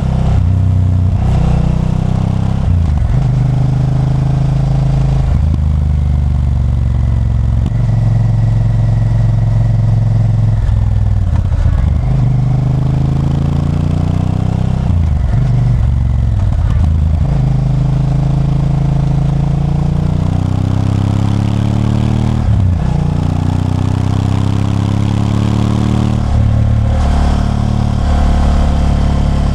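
Honda Varadero 1000's V-twin engine running under way. Its pitch rises and falls again and again as the throttle is opened and closed, with short breaks several times.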